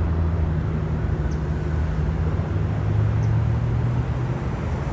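Jet airliner's engines rumbling steadily during a smooth, soft touchdown, with a held low drone under a noisy hiss.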